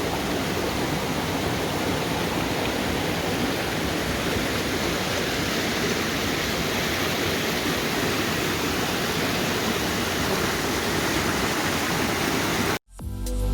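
Waterfall's falling water, a steady rushing noise that cuts off suddenly near the end.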